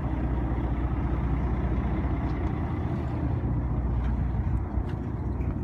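A fishing boat's engine running steadily, a constant low rumble.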